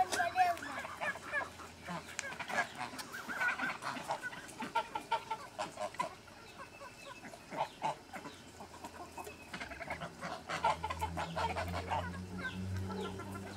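Domestic poultry clucking and calling in many short bursts while being fed. A low steady hum comes in about ten seconds in.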